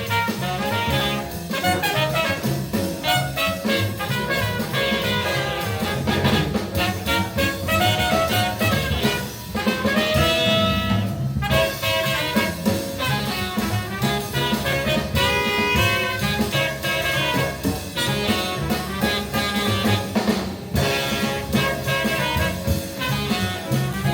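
Hard bop jazz record playing through a Linn hi-fi system, from a Linn Sondek LP12 turntable: trumpet and saxophone over bass and drums at a lively swing tempo.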